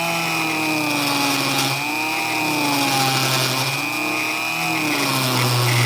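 Dremel rotary tool running at low speed, drilling through a carbon fiber wheelie bar. Its pitch wavers up and down as the bit is pressed into the cut and backed off, over a steady high whine.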